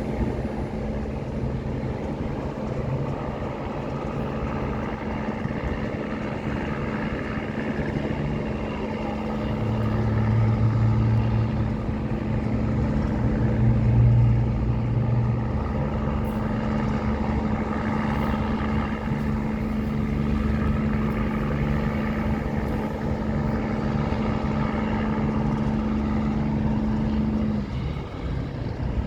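Tugboat engine running steadily under way, with a constant drone that swells a little twice in the middle and drops away shortly before the end.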